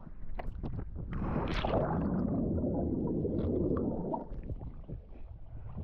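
A person jumping into the sea: a few light knocks, then a splash about a second in, followed by about three seconds of muffled underwater rushing and bubbling that fades near the end.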